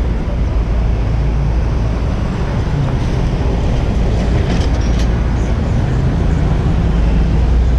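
Wind buffeting a GoPro's microphone on a moving bicycle, a steady low rumble, over city street traffic, with a few faint high squeaks about halfway through.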